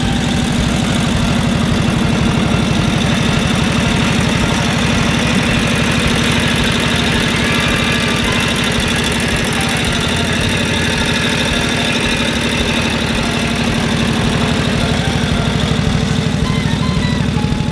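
1942 Harley-Davidson WLA's 45-cubic-inch flathead V-twin running steadily at low revs with an even, rapid beat.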